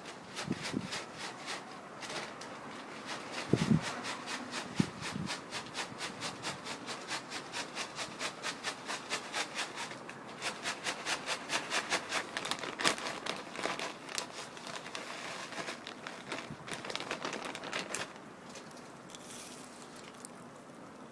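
Pigeons pecking at food on a hard surface: a fast, regular run of sharp taps, about four a second, which stops a few seconds before the end.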